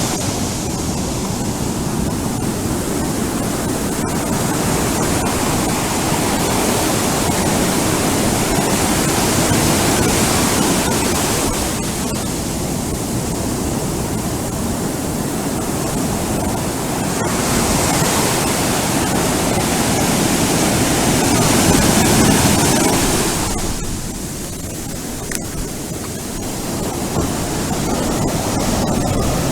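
Ocean surf breaking on a beach: a continuous wash of waves that swells and eases every several seconds, with a brief quieter lull near the end.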